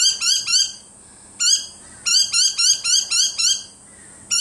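Cat chattering at a bird: rapid runs of short, high, upward-flicking chirps, about five a second, broken by brief pauses.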